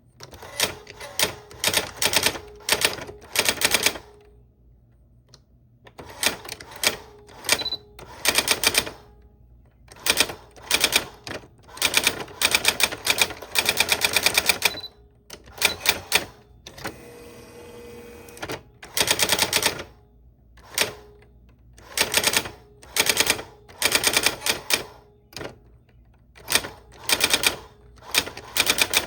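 Old-style typewriter being typed on: rapid clacking keystrokes in runs of a second or two, separated by short pauses.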